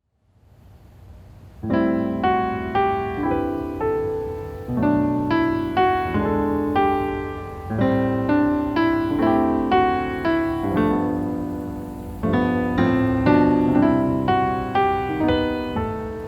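Background music: a solo piano instrumental of chords and a melody, each note struck and fading, starting about a second and a half in after a faint lead-in.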